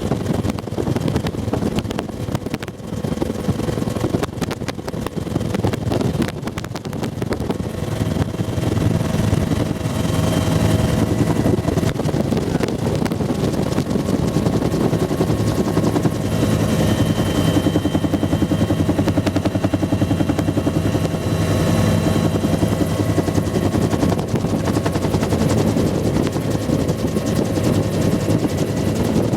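Bell UH-1 Huey helicopter heard from a cabin gunner seat: the two-bladed main rotor's fast steady beat over engine whine and wind rush. About eight seconds in it becomes a little louder and more even.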